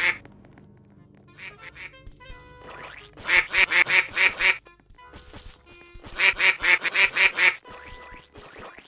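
Duck quacking in two loud, rapid runs of about eight or nine quacks each, with a few fainter quacks before them.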